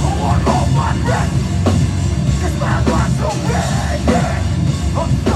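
Heavy metal band playing live, loud and continuous, with a drum kit and distorted guitars.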